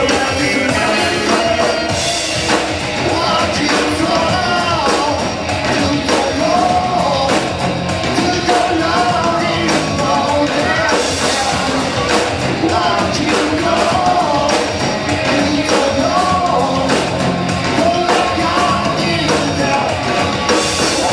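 A rock band playing live, with drums, amplified instruments and a singer's voice carrying a wavering melody over them.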